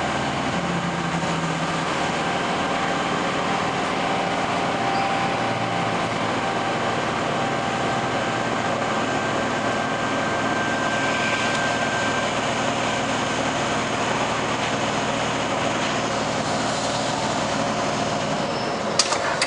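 Electric suburban train running, heard from inside the carriage: a steady rumble with faint held whining tones. A couple of sharp clicks come near the end.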